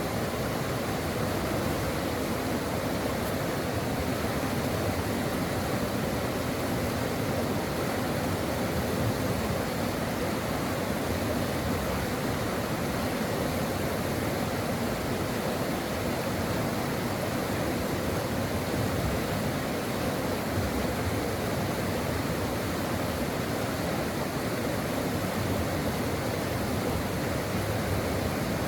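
Brook water rushing steadily, an even, unbroken noise with no distinct splashes or changes.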